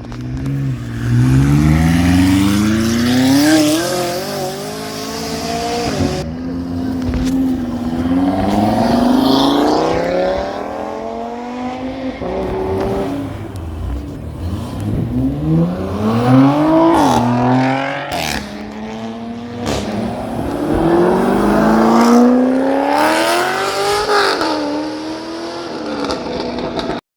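Car engines accelerating hard, revving up: the pitch climbs in several long pulls, each one dropping away before the next begins.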